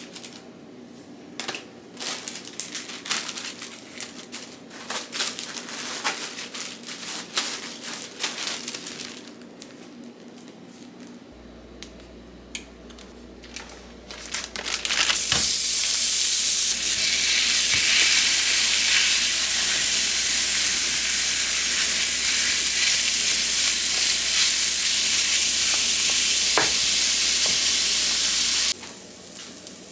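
Light kitchen clicks and knocks, then about halfway through a loud, steady sizzle of food frying in a hot pan, which cuts off abruptly near the end.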